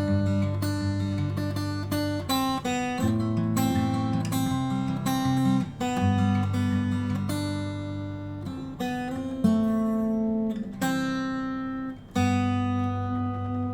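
Acoustic guitar playing the song's closing chords, strummed and picked, coming further apart, with a final chord struck about twelve seconds in and left to ring.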